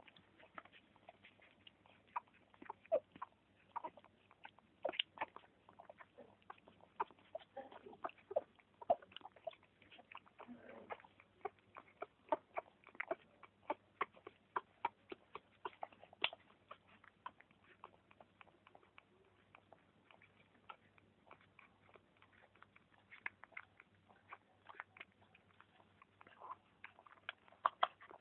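A mother dog and her puppies making small mouth sounds: many quick, irregular wet clicks and smacks, several a second, with a faint murmur now and then.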